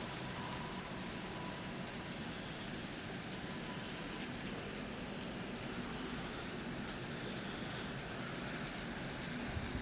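Steady rain falling in a storm, an even, continuous hiss, with a single faint knock near the end.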